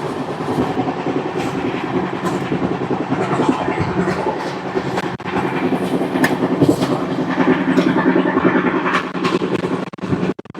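Express passenger train running at speed: a steady rumble of wheels on rails with a few sharp clicks along the way.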